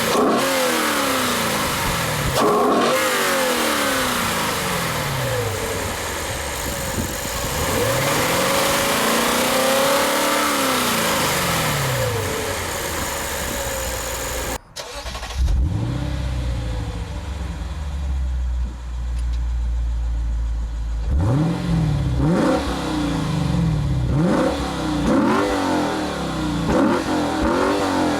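2015 Lexus RC F's 5.0-litre V8 engine and exhaust, rising and falling in pitch as it accelerates and lets off, over a steady hiss. After a cut about halfway through, the V8 idles low and then is blipped in a series of quick revs.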